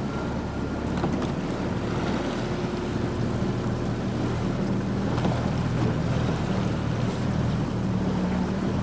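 Boat under way on the water: a steady low hum under water and wind noise buffeting the microphone.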